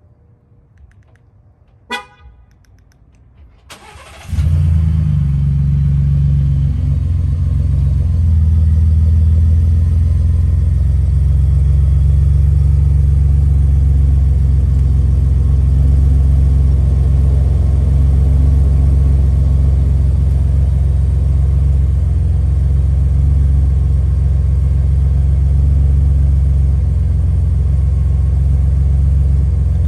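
A short horn chirp about two seconds in. Then a Ford F-150's 3.5 EcoBoost twin-turbo V6 starts up about four seconds in and settles into a steady, deep idle through a Magnaflow 12-inch 1-into-2 muffler with the resonator deleted.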